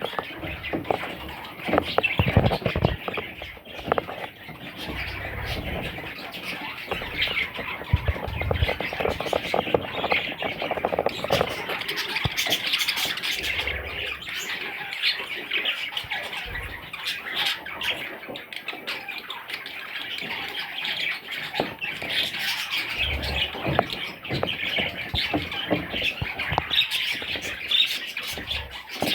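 Pet budgerigars chattering and squawking continuously, a dense mix of many quick, scratchy calls, with a few low knocks here and there.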